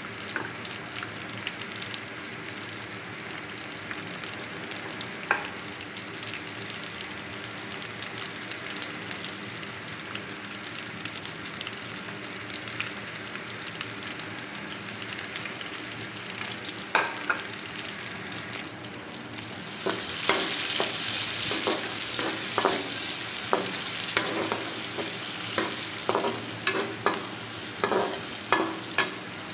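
Sliced onions sizzling in hot oil in an aluminium pot, a steady frying hiss. About two-thirds of the way in the sizzle grows louder and a metal slotted spoon starts clicking and scraping against the pot as the onions are stirred.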